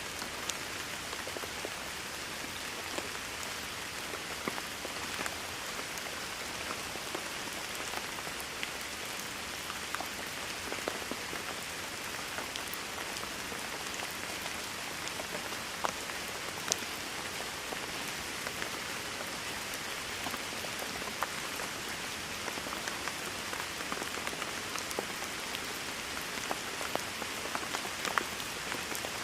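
Rain falling steadily: an even, dense hiss with scattered sharper hits of single drops.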